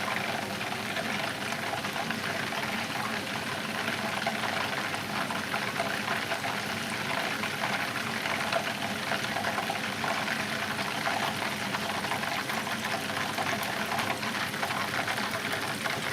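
Deep-frying oil in a pan sizzling and crackling steadily as it heats up between fries of chicken pieces, a dense even hiss full of fine pops.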